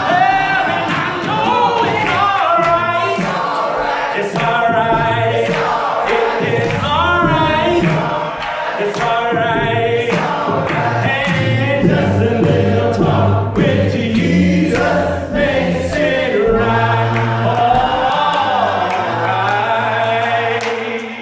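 Church choir and congregation singing a gospel song with accompaniment, the voices wavering and held across long notes.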